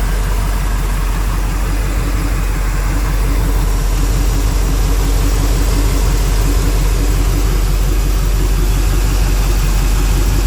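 A 1985 Chevrolet K5 Blazer's 350 crate V8 idling steadily. Its exhaust dumps are open and the restrictor plates are off.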